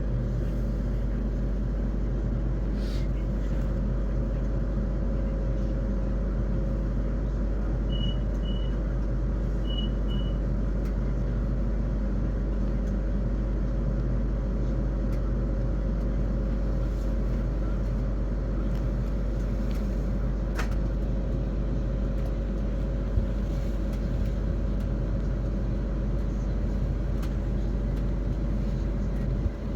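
Interior of a Siemens Class 450 Desiro electric multiple unit running between stations: a steady rumble of wheels on track with a steady low drone from the train's running gear. Two pairs of short high beeps come about eight to ten seconds in, and there is a single click about twenty seconds in.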